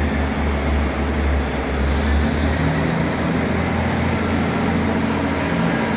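Train at a station platform running with a steady low engine hum, and a faint high whine slowly rising in pitch.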